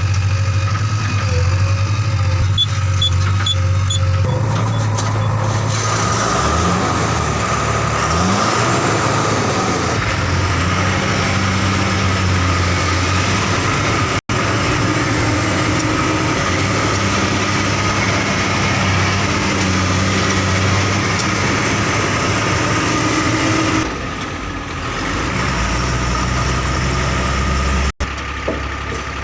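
Heavy diesel engines running steadily, with one engine revving up and down about a quarter of the way in. The sound changes abruptly twice.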